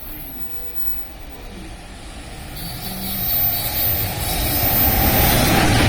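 A train approaching, its rumble and rail noise swelling from about halfway through and growing louder to the end.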